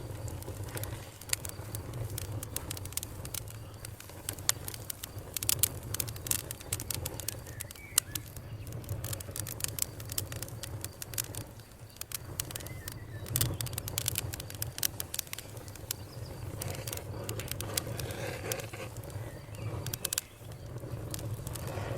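Campfire burning, with many sharp, irregular crackles and pops from the wood over a steady low rumble of the flames.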